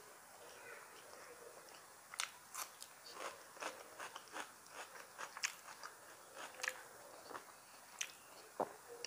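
A person chewing a mouthful of rice and curry close to the microphone: a run of soft, irregular wet mouth clicks and smacks starting about two seconds in.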